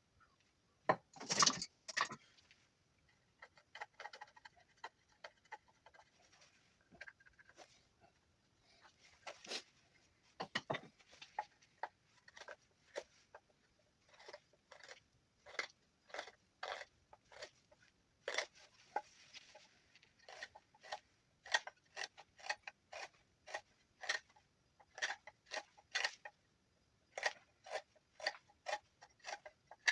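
Knife whittling juniper wood, cutting off shavings in short scraping strokes. The strokes settle into a steady run of about two a second in the second half.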